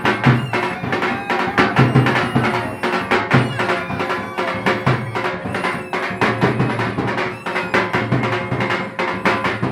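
Traditional folk music accompanying a puppet show: fast, steady drumming over a held drone.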